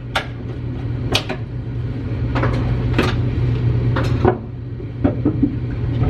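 Crowbar prying tongue-and-groove wooden wall planks off their nails: a series of sharp wooden knocks and cracks, about one a second. A steady low hum runs underneath.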